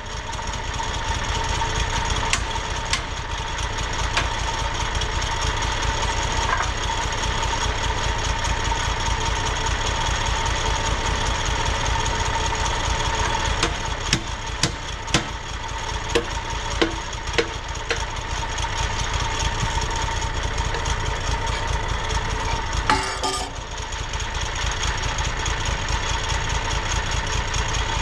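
An engine running at a steady speed throughout, with scattered sharp clicks and knocks in the middle and a short clatter about three quarters of the way through.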